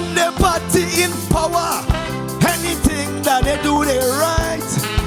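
Live calypso band music with a steady beat, drum hits about twice a second under a bass line, and a bending melodic line on top.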